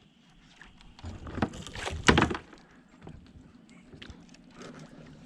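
Knocks and splashy scuffs in and around a kayak while a hooked bass is brought in. The loudest, a sharp burst, comes about two seconds in, with a few fainter knocks later.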